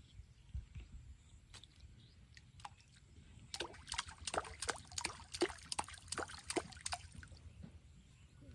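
Water splashing: a quick run of splashes that starts about a third of the way in and stops about a second before the end, over a low steady rumble.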